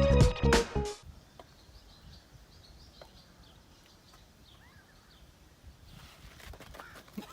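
Background music that cuts off suddenly about a second in, followed by faint outdoor ambience with light, scattered bird chirps.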